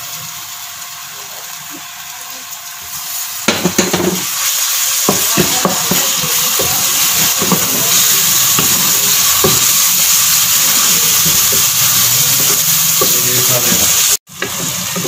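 Sliced onions and ginger-garlic paste sizzling in hot oil in a metal pot, stirred and scraped with a wooden spatula. The sizzle gets louder about three and a half seconds in, once the stirring strokes start, and cuts out for a moment near the end.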